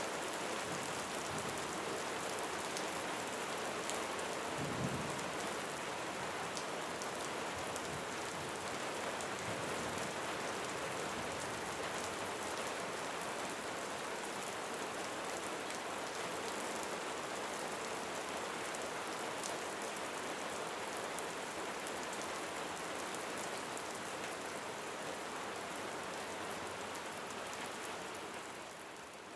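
Steady rain falling on a roof, with fine ticks of individual drops through the hiss. There is a brief low thud about five seconds in.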